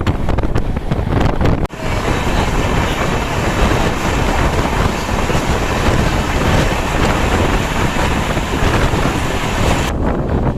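Passenger train running, with wind rushing over the microphone: a steady loud rumble and hiss. A brief drop comes about two seconds in, and the high hiss falls away near the end.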